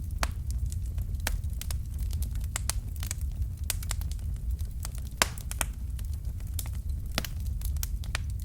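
Fire in a fireplace crackling: irregular sharp pops and snaps over a steady low rumble, with the loudest pop about five seconds in.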